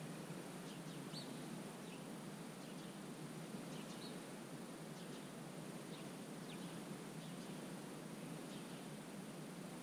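Quiet wetland ambience: a steady low rush of background noise with short, faint, high-pitched bird chirps scattered throughout, about ten of them.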